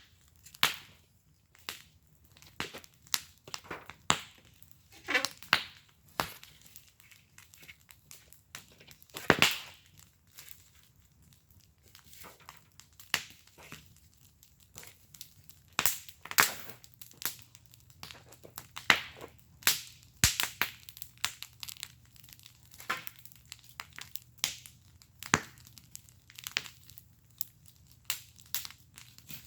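Wood fire burning in a fire pit, crackling with irregular sharp pops and snaps, a few louder ones standing out.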